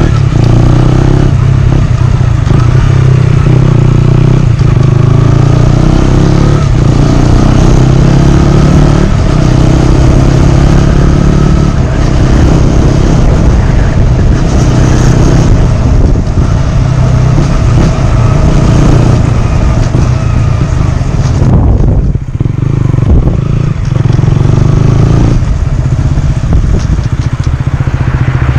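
2018 KTM Duke 125's single-cylinder engine running loud through a GPR aftermarket exhaust with the dB killer removed, holding a steady note that briefly drops twice about three-quarters of the way through.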